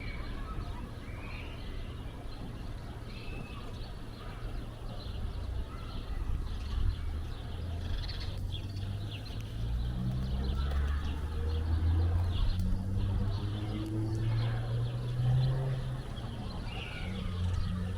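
Gulls calling over a steady low rumble that swells in the middle.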